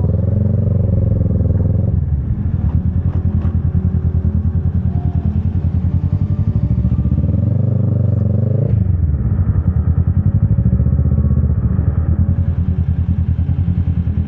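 Motorcycle engine running with an even, rapid pulsing beat. Its pitch wavers briefly near the start and again around eight seconds in.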